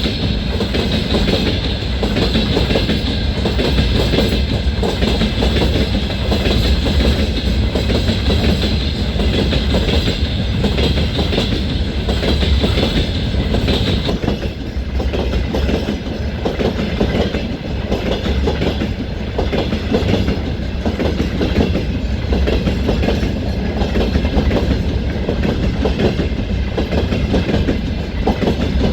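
Freight train wagons rolling past steadily, wheels clattering over the rail joints, with a constant hiss of wheel and rail noise.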